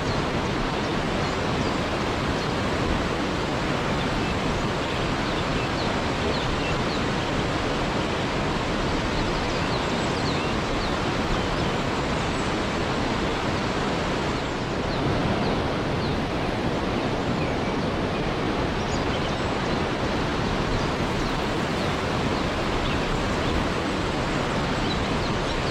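Waterfall rushing in a steady, even roar of falling water, with faint high chirps scattered over it.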